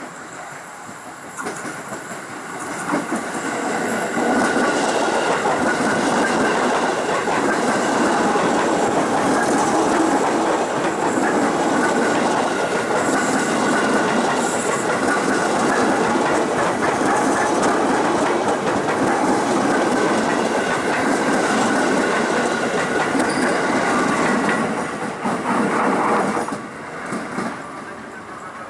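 KRL Commuter Line electric train passing, its wheels clattering over the rail joints. It builds over the first few seconds, runs loud for about twenty seconds, then drops away near the end.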